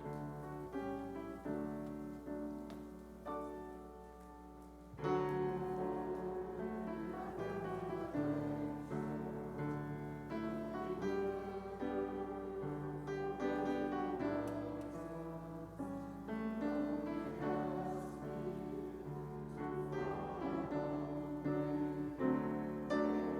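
Piano playing slow, held chords, soft at first, then fuller and louder from about five seconds in.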